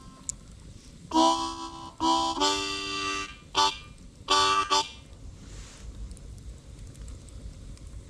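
Harmonica played in short chords: about five brief blows and draws over roughly four seconds, then it stops, leaving only faint low background noise.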